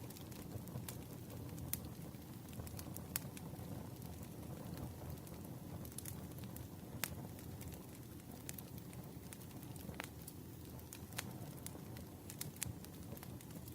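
Campfire burning: a steady low rush of the flames with irregular sharp pops and crackles of the wood.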